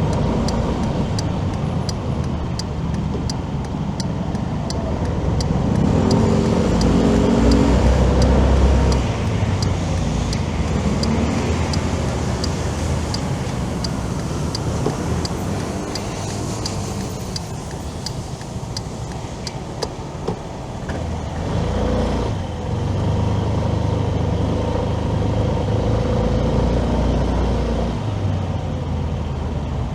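Motorcycle ride through city traffic: engine and road noise, with a louder passing or accelerating engine around a quarter of the way in. A light regular ticking, about twice a second, runs through the first two-thirds and then stops.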